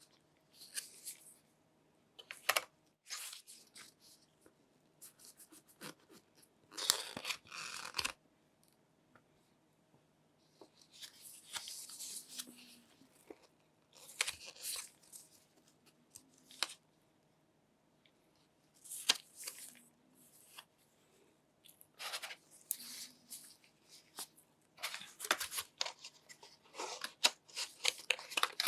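Phone packaging being handled and torn open: irregular bursts of tearing and rustling with small clicks, separated by quiet gaps and coming thicker near the end.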